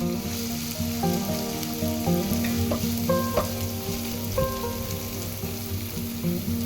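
Food sizzling in a hot frying pan, a steady crackling hiss, with background music of plucked notes underneath.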